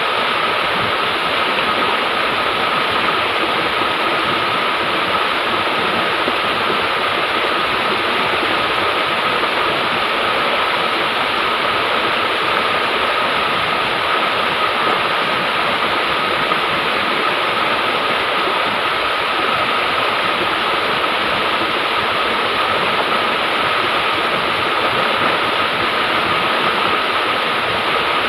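River water rushing steadily, an even noise with no breaks or changes.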